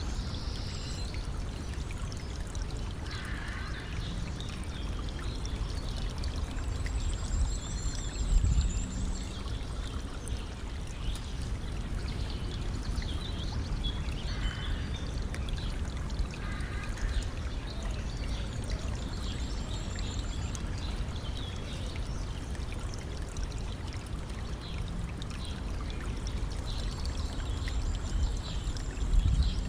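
Small river flowing steadily with a trickling rush, with a bird singing short high trills now and then. Two brief low thumps stand out, about eight seconds in and near the end.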